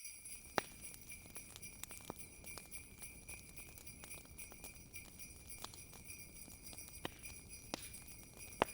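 Jingle bells shaking steadily with a faint, continuous high jingle, over a crackling wood fire whose sharp pops stand out now and then, loudest about half a second in and near the end.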